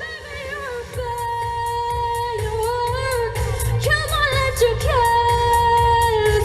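A song with a woman singing a held, gliding melody over a backing with a steady drum beat and bass, the beat growing fuller about a second in.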